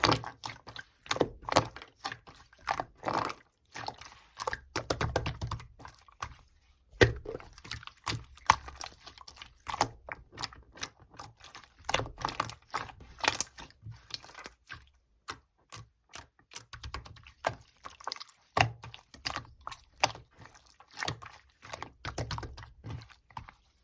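Purple pearl slime being squished, pressed and stretched by hand, giving irregular clicks and pops, several a second, with some soft low thuds.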